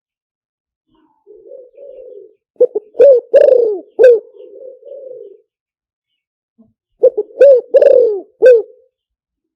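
Spotted dove cooing in two song phrases. Each phrase has soft low coos and a run of three or four loud coo notes, and there is a pause of about a second and a half between them. It is a decoy call recording used to lure wild spotted doves.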